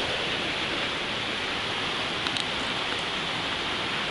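Steady rush of water from a mountain waterfall or stream, with a few faint clicks a little over two seconds in.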